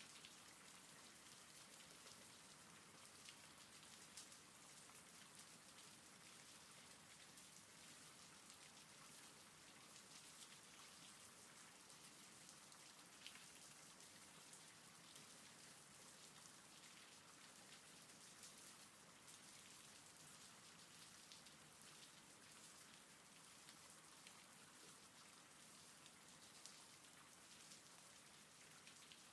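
Faint, steady rain, with scattered individual drops ticking.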